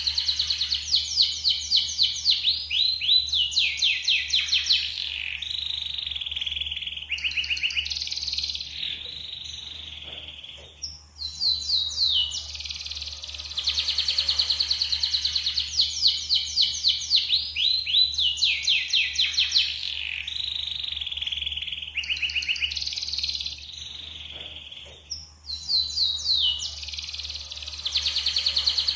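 Yellow canary singing a long song of fast, high trills and rolling phrases, with short breaks about 11 and 24 seconds in. It is a clean song of the kind kept as a lure recording to set other canaries singing.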